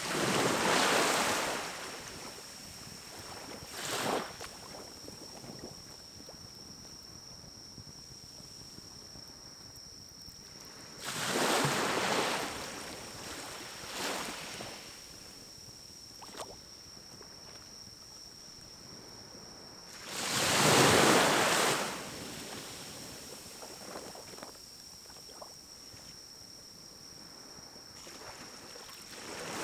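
Pine cones burning in a small wood-burning stove, with whooshing swells of noise about two seconds long (three big ones, the loudest about two-thirds of the way through), a few shorter ones and an odd crackle, over a faint steady high whine.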